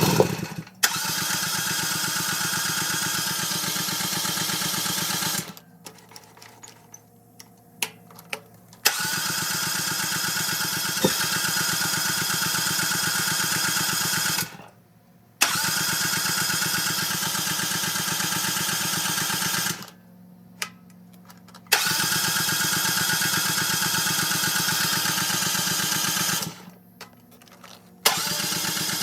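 Briggs & Stratton engine of a Rippa Mule Trac mini excavator cranking over in repeated attempts of about five seconds each, with short pauses between. It spins on full choke but does not catch and run.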